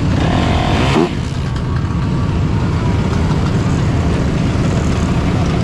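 Dirt bike and ATV engines running in a large group ride, with one engine revving up and back down about a second in.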